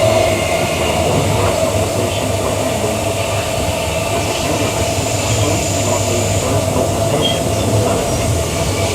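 Queensland Rail electric multiple unit train running between stations, heard from inside the carriage: a steady rumble of wheels on the track under a constant tone.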